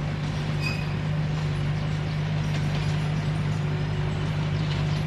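Komatsu D21P bulldozer's diesel engine running steadily, a deep even hum, with a few faint clicks over it.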